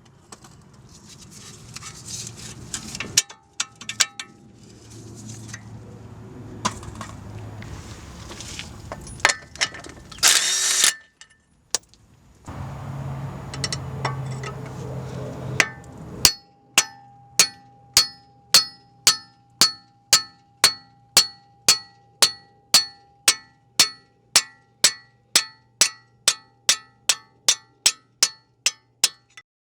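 Tool and metal clanks and knocks during car repair work, with a short loud hissing burst near the middle. This is followed by a long, evenly paced run of sharp clicks, about two a second.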